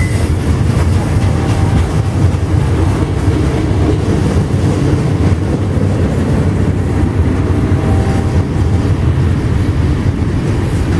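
Freight train cars rolling past at close range: a loud, steady rumble of steel wheels on the rails.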